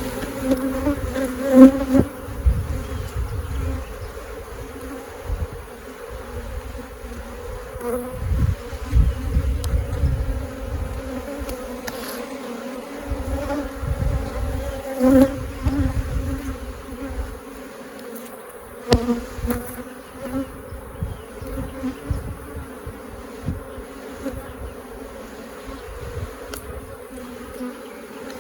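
A mass of honeybees buzzing in a steady hum around a hive opened and being worked for a split, with a few sharp knocks and low rumbles over it.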